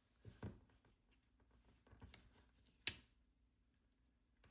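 Faint handling of a sticker sheet and planner page: two soft taps, about half a second in and just before three seconds, with a few fainter small ticks between, as a sticker is peeled and pressed on.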